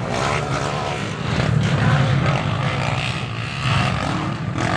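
Motocross dirt bike engines running, their pitch rising and falling as the riders work the throttle.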